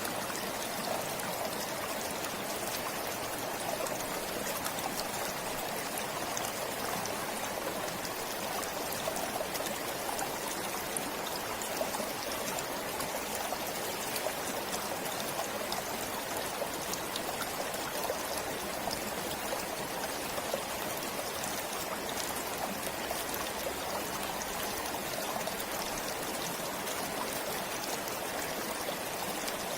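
Forest stream flowing steadily, a continuous rush and trickle of water over stones.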